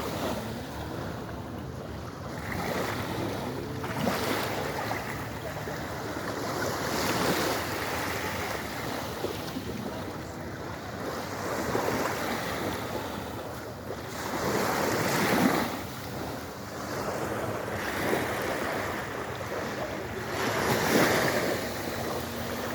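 Sea waves washing in and falling back, swelling every few seconds, with wind noise on the microphone.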